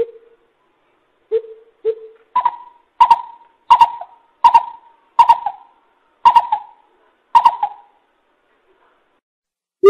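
Coucal calling: a few low hoots near the start, then a run of seven higher hoots, roughly one every 0.7 s, each trailing off with an echoing tail.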